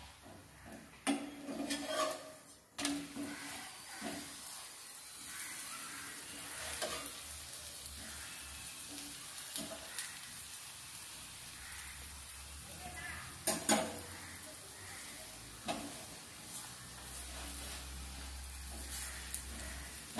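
A chapati cooking in oil on a hot iron tawa, with a steady light sizzle. The spatula scrapes and presses on it, and a few sharp taps of utensils on the pan and the steel oil cup are heard, two of them close together about two-thirds of the way through.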